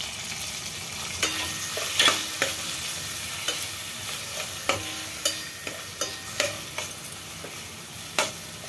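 Onions, tomato and spices frying in oil in a stainless steel pot with a steady sizzle, while a perforated steel spoon stirs them, scraping and knocking against the pot now and then.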